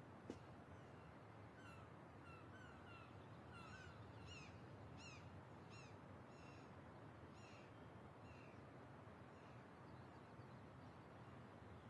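Faint birds chirping: a run of short, quick chirps that falls in pitch, tapering off about nine seconds in, over quiet outdoor room tone.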